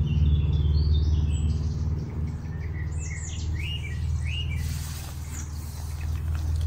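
Small birds chirping and calling in short rising and falling notes, bunched together a few seconds in, over a loud steady low drone.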